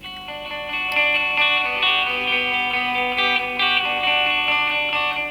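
Guitar picking a melodic intro of separate plucked notes, swelling in over the first second.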